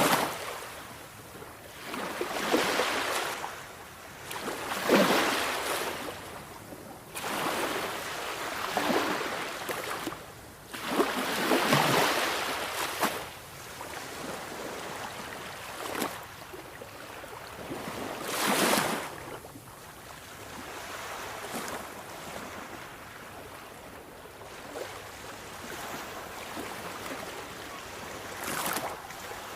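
Sea waves breaking: swells of rushing surf every few seconds with quieter lulls between, the swells fewer and fainter in the second half.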